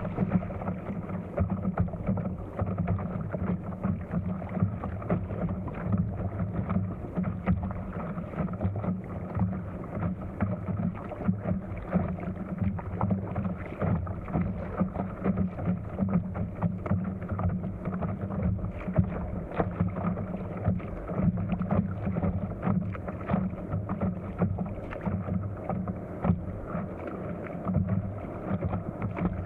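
Wind buffeting the microphone of a camera mounted on an inflatable stand-up paddleboard, with water splashing and slapping against the board in choppy water. The sound is a steady, rough rush, dotted with many small irregular splashes.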